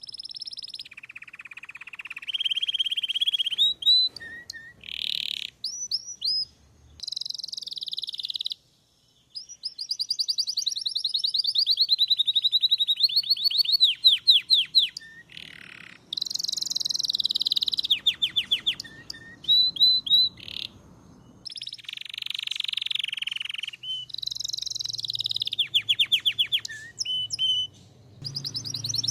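Belgian canary singing a long, continuous song of rapid trills and quickly repeated notes, moving from phrase to phrase at different pitches, with one short break about a third of the way in.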